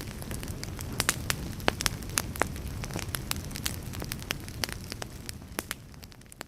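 Wood fire burning in a fireplace: a steady low rumble of flame with irregular sharp crackles and pops from the logs, thinning out a little towards the end.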